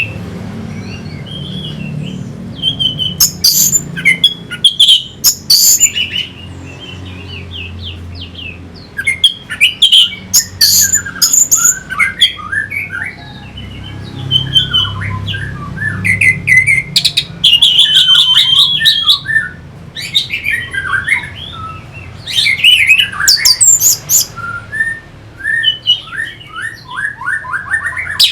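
Orange-headed thrush singing a varied run of quick, sharp whistled phrases and rapid trills in bursts with short pauses, including one longer, steady trill a little past halfway.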